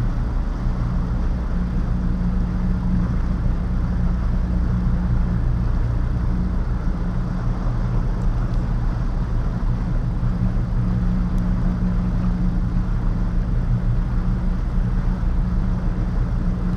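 Boat engine running steadily while underway: a constant low drone that does not change in pitch or level.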